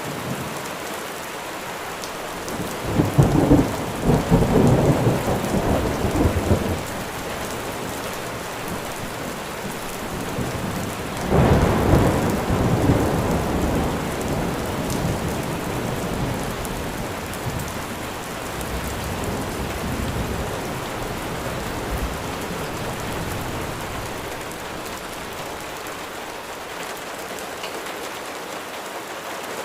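Steady rain falling, with two rolls of thunder: the first about three seconds in, lasting a few seconds, the second around eleven seconds in and fading away slowly.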